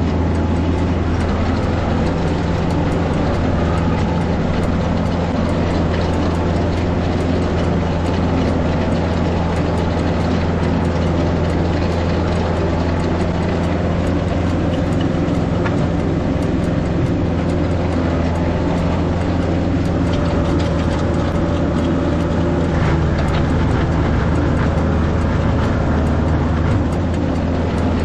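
Tractor diesel engine running steadily under load, with a mechanical rattle over its low, even hum.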